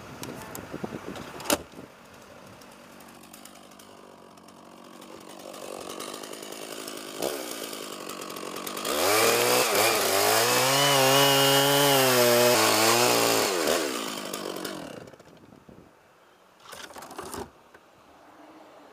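A chainsaw engine revs up to full throttle, holds there for about five seconds, then drops back down. A single sharp knock comes about a second and a half in.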